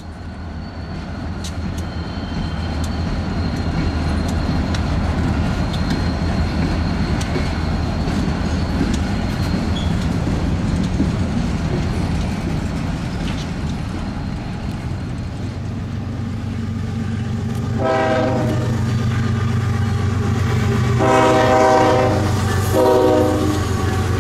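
Wheeling & Lake Erie diesel locomotives rumbling past with a freight train, building over the first few seconds and then holding steady. Near the end a locomotive horn blows three times, the last blast shorter.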